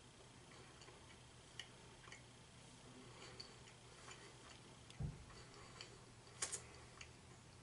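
Near silence with faint, scattered small mouth clicks from a person chewing a soft, chewy red velvet cookie with the mouth closed. A dull low thump comes about five seconds in, and the sharpest clicks come as a quick pair about a second and a half later.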